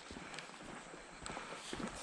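Hiker's footsteps on a mountain trail, uneven clicks and thuds from boots striking the ground.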